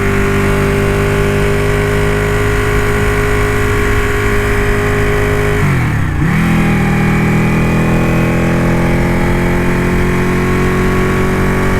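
Ducati motorcycle engine running steadily under way. About six seconds in, the revs drop briefly and climb again, as at a gear change.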